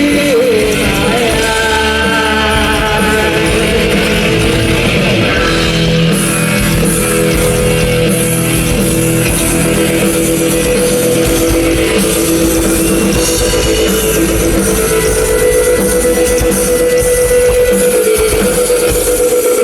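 Live rock band playing loud, with distorted electric guitar, bass and drum kit, and sustained held notes over the beat.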